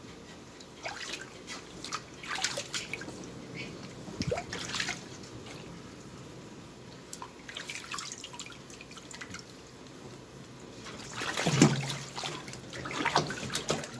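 Water splashing and dripping in irregular bursts as a kitten is washed, with a louder spell of splashing near the end.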